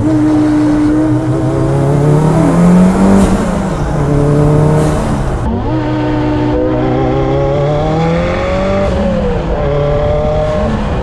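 Kimera EVO37's turbocharged and supercharged four-cylinder engine pulling hard through the gears, in its low-power engine map. The pitch climbs steadily and drops sharply at each shift, about three, five and a half and nine seconds in.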